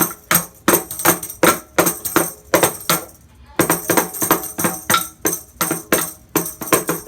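A small child beating a toy drum with an uneven, fast beat of about three hits a second, each hit with a metallic jingle. The beat pauses briefly about halfway through.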